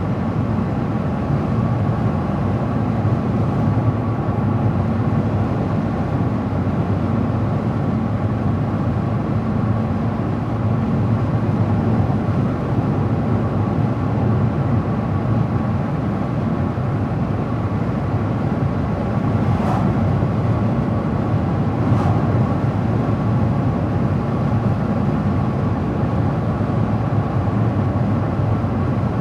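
Steady road noise of a car driving at a constant speed: tyre and engine noise. Two faint clicks about two seconds apart come roughly two-thirds of the way in.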